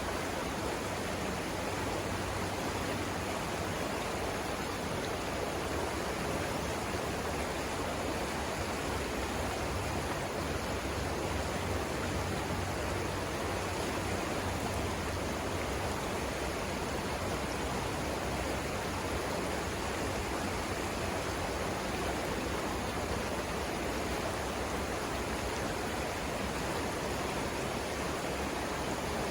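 Savannah River water flowing over rapids: a steady, unbroken rush of moving water.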